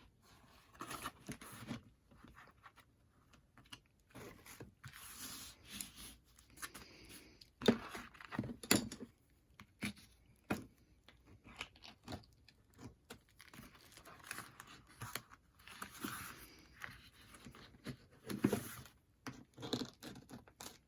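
Paper envelope being handled and folded by hand: irregular rustling, crinkling and scraping as the corners are turned in and creased, with a few sharp taps or clicks between.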